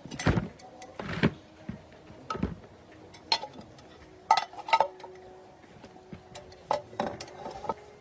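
Metal tools and engine parts knocking and clinking against each other, irregularly, about nine times, some with a short metallic ring.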